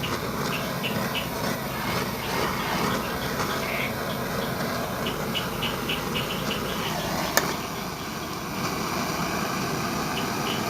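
Steady rushing noise of a heating tool being played over a welded patch on a refrigerator's body, drying off leftover water before painting. Insects chirp in quick repeated trills over it, and there is one sharp click about seven seconds in.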